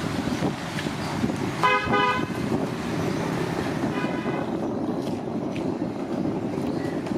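A vehicle horn honks twice, a longer honk about two seconds in and a shorter one about four seconds in, over a steady rumble of traffic.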